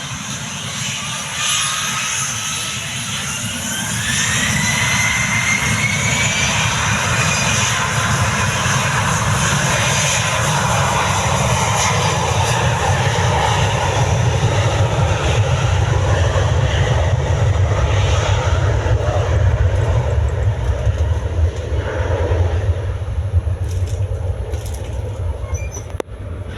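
Gulfstream G650 business jet's twin Rolls-Royce BR725 turbofans spooling up to takeoff power with a rising whine, then a loud, steady rush of jet noise as it takes off.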